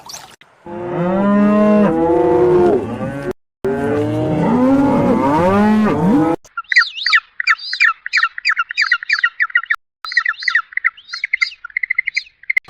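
A cow mooing twice, each moo long and drawn out. Then a bird calling in quick, repeated high chirps, with a short break partway through and a fast trill near the end.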